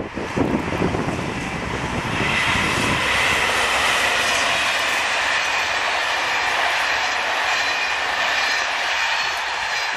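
SNCF electric locomotive and its train passing close by. The wheels clatter over the rail joints for the first couple of seconds, then settle into a steady rolling noise with a high-pitched ringing whine.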